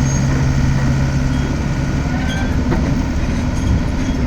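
XCMG XE60DA midi excavator running, its diesel engine and machinery making a continuous loud mechanical rumble. A steady low hum drops away about two seconds in while the rumble carries on.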